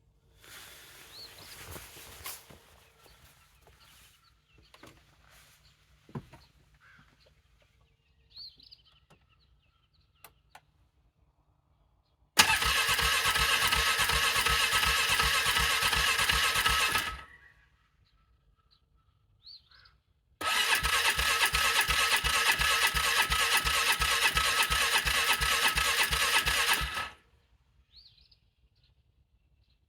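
Cold engine being cranked by its starter motor in two long attempts, about five and seven seconds, each cut off without the engine catching: a hard cold start. Faint bird chirps in the quiet stretches.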